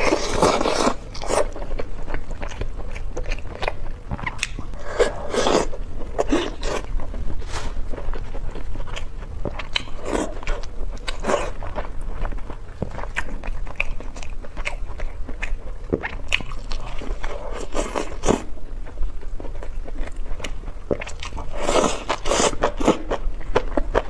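Close-miked eating sounds: wet biting, chewing and mouth smacks, with short clicks. Louder clusters of sound come near the start, about five seconds in and near the end, as glazed braised meat is torn apart by gloved hands and bitten.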